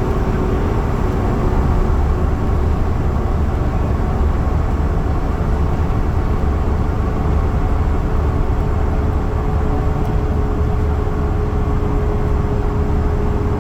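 Yutong bus driving at speed, heard from on board: a steady low rumble of drive and road noise with a constant whine that gets a little stronger in the second half.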